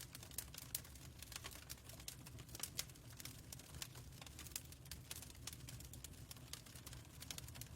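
Fireplace fire crackling: irregular sharp pops and snaps of varying loudness over a steady low rumble.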